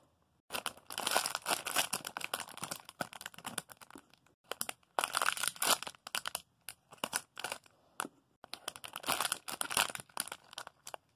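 Crinkling plastic packaging being handled, in bursts of crackling with short pauses between.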